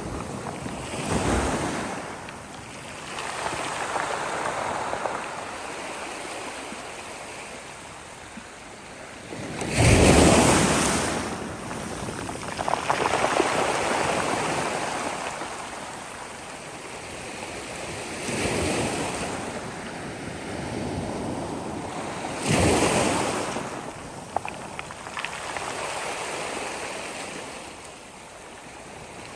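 Sea waves breaking and washing up the shore, surging and fading every few seconds, with the loudest break about ten seconds in.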